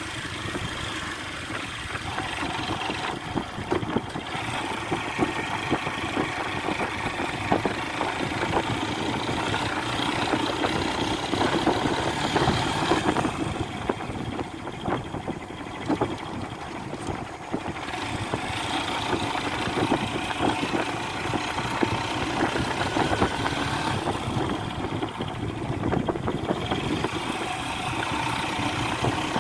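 A motor vehicle's engine running steadily, with many small knocks and rattles throughout.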